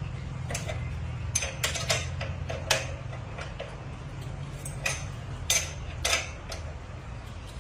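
Irregular sharp metallic clicks and clinks, about a dozen, of metal tools and parts being handled, over a steady low hum.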